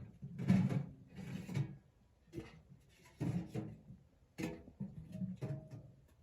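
A series of irregular knocks and scraping rubs, about seven in the space of six seconds, as of something being handled and set down.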